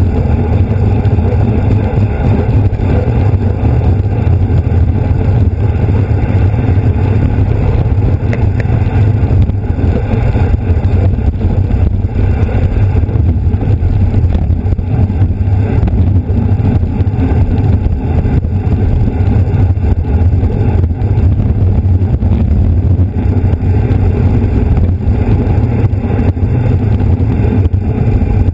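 Steady wind rumble buffeting the microphone of a camera riding on a bicycle at race speed.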